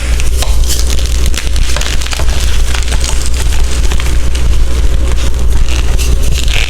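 Gym chalk being crushed and crumbled, a dense, continuous crunchy crackle of many small cracks, with a steady low rumble underneath.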